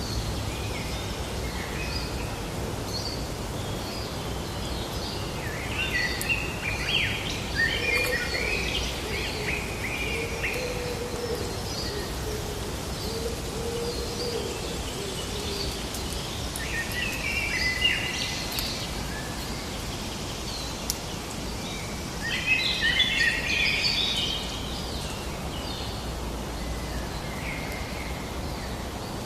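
Wild songbirds singing in several bursts of quick chirping phrases over a steady outdoor background hiss and low rumble. A lower, wavering call runs underneath for several seconds in the middle.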